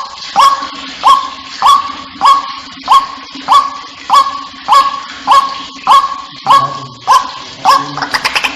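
White-breasted waterhen calls played as a bird lure: a loud rising note repeated about one and a half times a second, over a faint steady low hum. Near the end the notes come faster.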